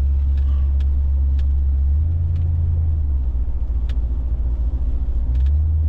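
Car engine and exhaust with a deep, steady rumble while driving. The engine note rises briefly about two seconds in and eases back a second later, with a few faint ticks over it.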